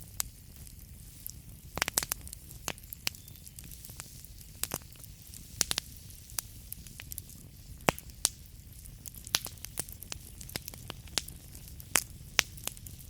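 Wood fire burning in a fireplace: a steady low rumble with irregular sharp crackles and pops, a few louder snaps standing out, the loudest about two, eight and twelve seconds in.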